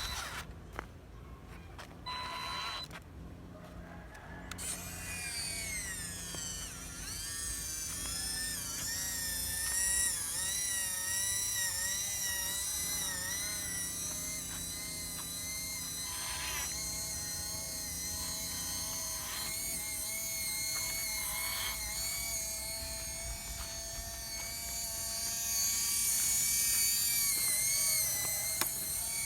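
Small electric motors and gearing of a radio-controlled construction truck whining, starting about four seconds in, the pitch rising and falling unevenly as the throttle changes. There are a few clicks midway, and it gets louder near the end.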